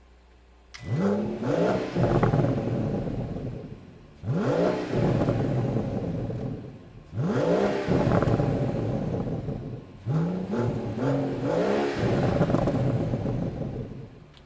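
BMW 760's V12 engine revved through its exhaust four times, each rev rising quickly, held for about three seconds, then dropping back toward idle.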